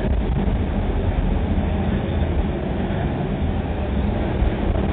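Passenger train coach running at speed, heard from inside a compartment: a steady, deep rumble of wheels on the rails.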